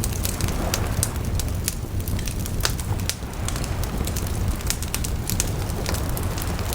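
Wood bonfire crackling, with many sharp, irregular pops from the burning logs over a steady low rumble.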